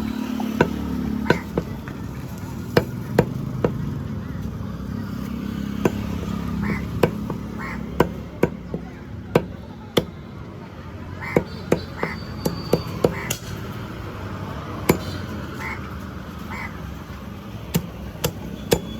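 A cleaver chopping chicken on a chopping block: sharp, irregular chops, roughly one or two a second.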